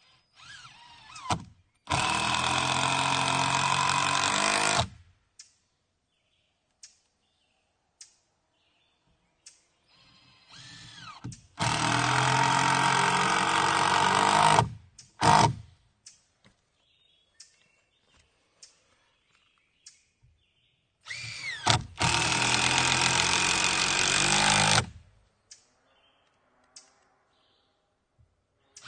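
Handheld power tool running in three separate runs of about three seconds each, each begun with a short rising whine as it spins up.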